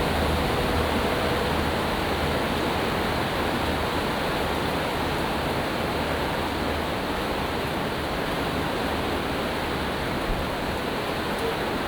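Rough sea surging against the sea wall with wind on the microphone, making a steady rushing noise. A low hum underneath fades away near the end.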